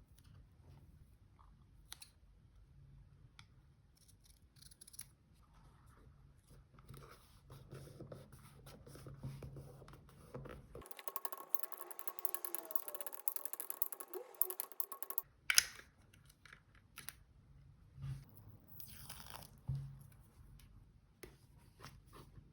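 Paper-craft handling sounds of journal decorating: soft rustling and light taps of paper and stickers, with about four seconds of dense crackly tearing in the middle, ending in a sharp snap.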